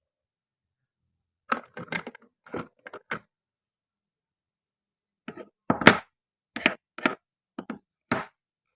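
Wooden and plastic toy fruit being cut and handled: short, sharp clicks and knocks in two quick clusters, a few strokes around the second and a half mark and several more from about five seconds in.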